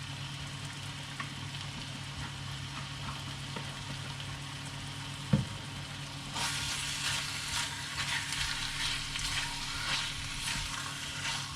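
Chicken and spice paste frying in a pan, a steady sizzle over a low hum. There is a sharp tap about five seconds in, and the sizzle turns louder and more crackly from about six seconds in as the pan is stir-fried.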